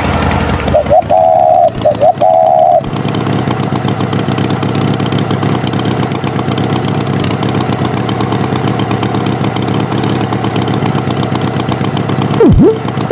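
Vehicle engine sound effect running steadily with a fast, even rattle. A few short, high steady tones sound in the first three seconds, and a brief swooping tone comes near the end.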